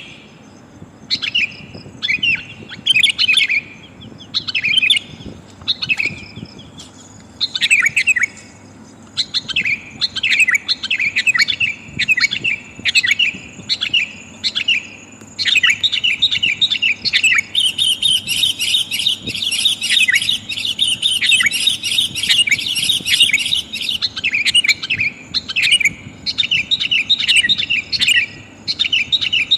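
Sooty-headed bulbuls (kutilang) calling: a female's call to males, used as a lure for wild birds. It starts as short bursts of quick chirpy notes with brief pauses. About halfway in it runs into a long unbroken stretch of rapid chattering, with higher notes layered over it for several seconds before the short bursts return.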